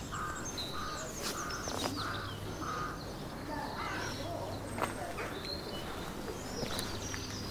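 A bird giving a rapid run of short repeated calls, about three a second, that stops about two and a half seconds in, with high chirps of small birds scattered throughout.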